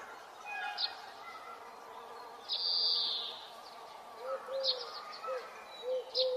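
Birds chirping and calling: short high chirps and held high notes, and from about four seconds in a series of short, low, hooting notes.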